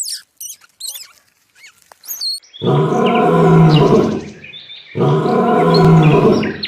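Quick high chirps and falling whistles, then two long, loud, low-pitched animal calls, each about a second and a half, with a short gap between them.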